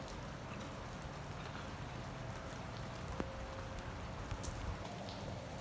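Steady rain falling, an even hiss with scattered drip ticks and one sharper drop about three seconds in.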